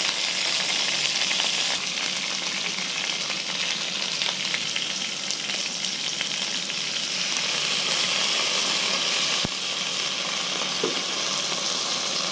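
Hot oil sizzling steadily as strips of dried snake meat fry with garlic, shallots and scallions in a pot.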